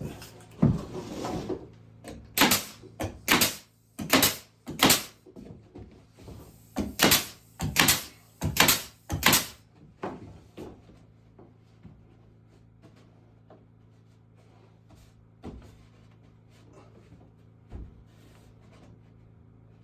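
A series of sharp knocks on wood, about a dozen, irregularly spaced through the first half, then a few faint clicks.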